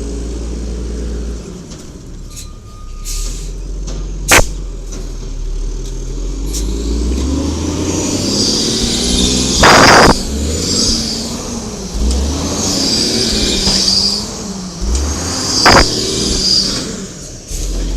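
Garbage truck's natural-gas Cummins L10G engine running, then revving up and down repeatedly from about seven seconds in, with a high whine rising and falling over it. A sharp bang comes about four seconds in, and two short loud bursts of noise come about ten and sixteen seconds in.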